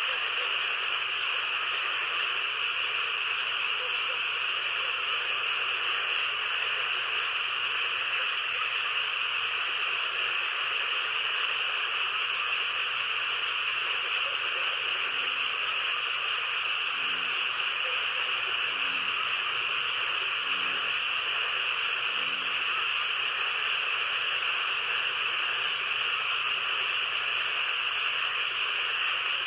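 A steady, high-pitched chorus of calling animals, with a handful of short low croaks spaced a second or two apart midway through.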